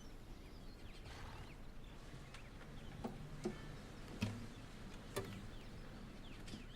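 Quiet outdoor ambience with faint short bird chirps and a few soft clicks or knocks.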